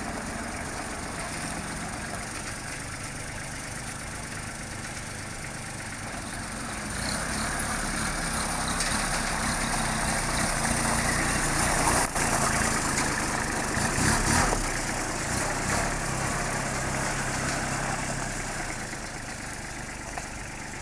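Kubota L2440 tractor's diesel engine running at idle. It gets louder for several seconds in the middle, then settles back.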